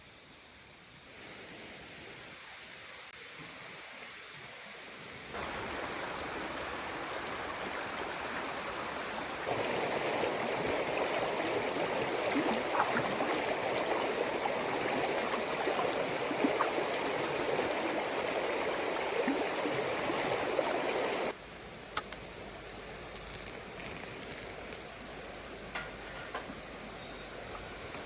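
A steady rushing, water-like noise that jumps louder in a few sudden steps, with scattered small pops in its loudest stretch, then drops back sharply.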